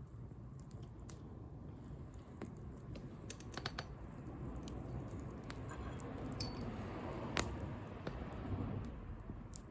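Wood bonfire crackling: scattered sharp pops over a low steady rumble, with one louder pop about seven seconds in.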